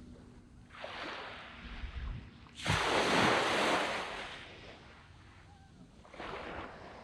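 Small waves breaking and washing up a sand beach. There is a light wash about a second in, a louder break near the three-second mark that fades away over a couple of seconds, and another small wash near the end.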